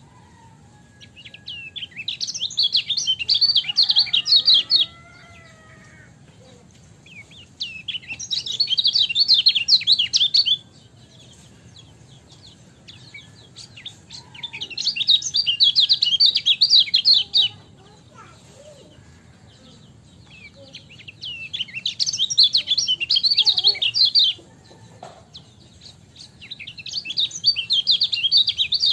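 Kecial kuning (a Lombok white-eye) singing in five bouts of rapid, high twittering chirps. Each bout lasts about three seconds, with roughly three-second pauses between, over a low steady background hiss.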